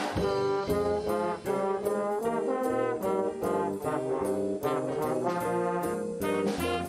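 Student band playing a brass passage led by trombones and trumpets, in quick rhythmic chords with cymbal ticks keeping time.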